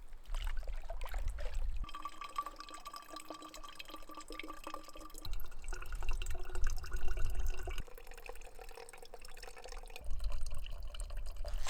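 Water trickling and dripping into a container as it is filled, in a few short cuts, with a steady ringing tone in some cuts and a low rumble in others.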